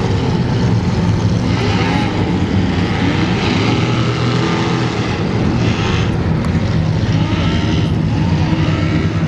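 Class One offshore racing powerboat engines running at speed, a loud steady drone with the hiss of spray and wind.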